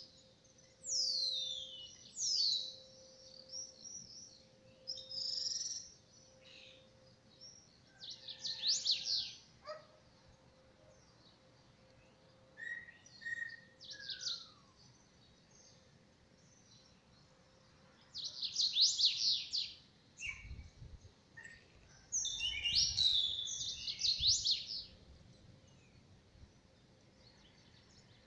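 Birds singing in short bursts of quick, falling high trills, repeated every few seconds, with a few low rumbles in between.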